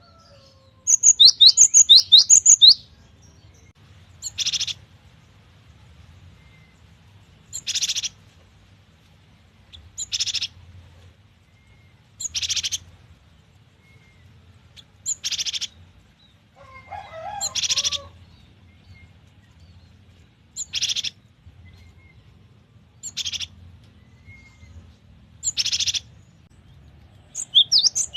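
Cinereous tit (gelatik batu) singing: a loud quick run of rising whistled notes about a second in, then short chattering phrases repeated about every two and a half seconds, with another run of rising notes near the end.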